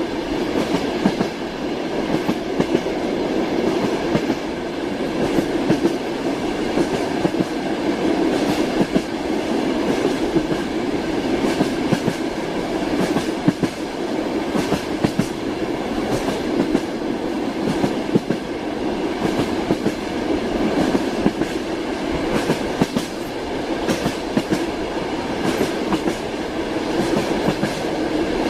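Train wheels clacking over the rails of a moving train, heard from inside the carriage: a steady rumble with frequent sharp clicks.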